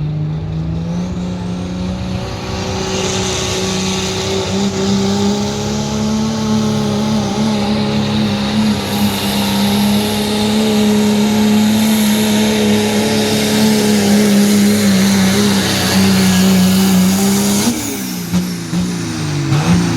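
Diesel pulling truck at full throttle during a pull. The engine note steps up about a second in and holds steady under a loud high hiss, then the throttle comes off near the end and the pitch falls away.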